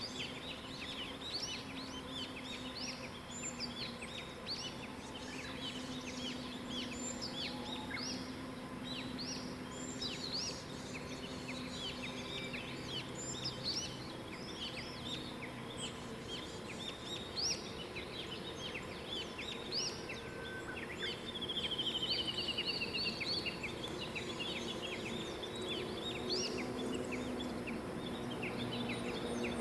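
Wild songbirds in a morning chorus: many short, high chirps and song phrases overlapping throughout, with a quick trill of repeated, slightly falling notes about two-thirds of the way through. A faint steady low hum runs underneath.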